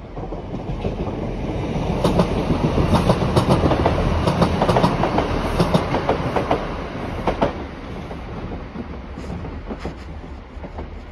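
Great Western Railway diesel multiple unit passing close by, its wheels clacking in a quick rhythm over the rail joints. The sound builds over the first two seconds, is loudest for about five seconds, then fades as the train draws away.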